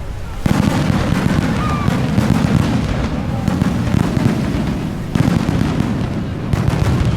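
Aerial fireworks display: a dense, rapid barrage of shell bursts and bangs over a continuous low rumble, surging loudly about half a second in and again about five seconds in.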